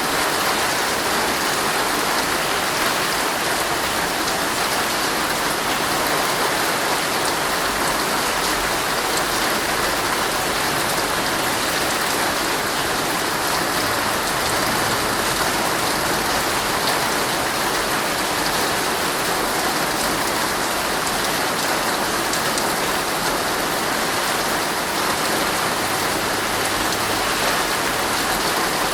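Heavy rain drumming steadily on a tent's fabric, a dense even patter of drops with no let-up.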